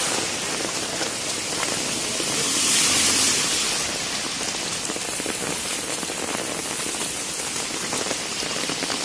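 Heavy rain falling steadily on a flooded street, splashing into the standing water, swelling louder briefly about three seconds in.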